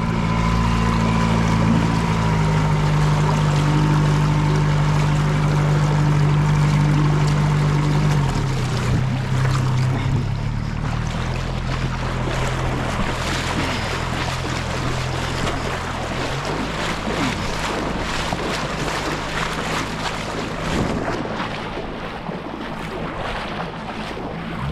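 A boat motor runs steadily under load while towing on a rope, with water churning and wind buffeting the microphone. The motor's note weakens about eight seconds in and again around sixteen seconds, while the water and wind noise grows.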